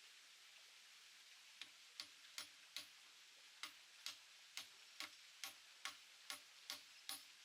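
Steady hiss, then from about a second and a half in a run of sharp tool strikes, about two to three a second, like hand-hammering in woodworking.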